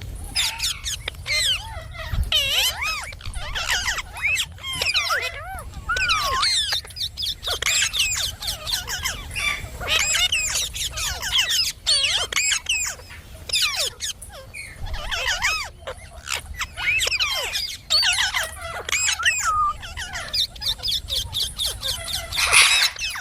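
Indian ringneck parakeet chattering: runs of quick, rising and falling high notes with short pauses between them.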